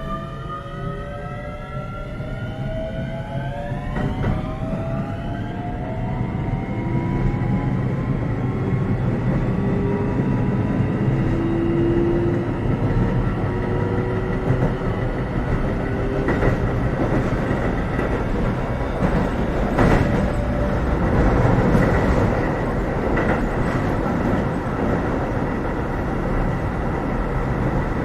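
Keio 7000 series electric commuter train heard from inside the car as it pulls away: a whine of several tones rises in pitch over the first few seconds while it accelerates. It then settles into steady running noise that grows louder, with the wheels clacking over rail joints.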